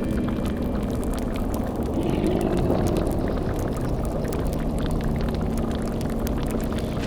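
Layered dark fantasy ambience: a continuous low rumble with fire-like crackling, a swelling whoosh about two seconds in, and a steady low drone tone entering about halfway through.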